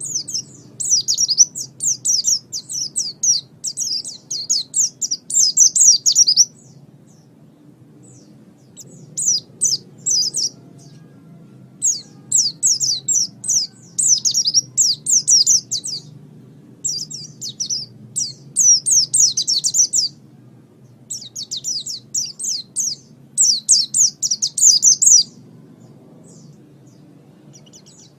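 Pleci (white-eye, Zosterops) singing in fast, high-pitched twittering phrases of a few seconds each, broken by short pauses, over a faint low hum.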